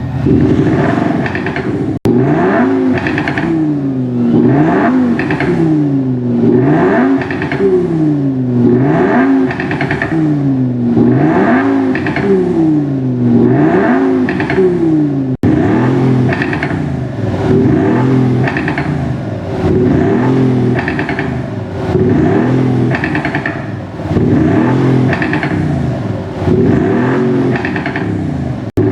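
Synthesized engine revving from an active virtual exhaust sound system on a Kia K5 diesel: the pitch rises and drops again over and over, about every one and a half to two seconds. The sound breaks off abruptly about two and fifteen seconds in, and after the second break its character changes, as a different sound preset takes over.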